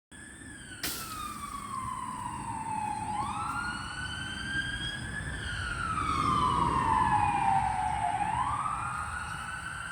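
Emergency vehicle siren wailing, its pitch sliding slowly down and then sweeping back up about every five seconds. A sharp click comes about a second in.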